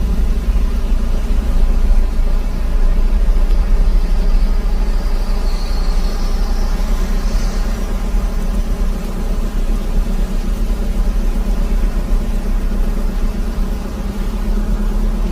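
Steady low rumble of a motor vehicle's engine running, with a faint steady hum over it.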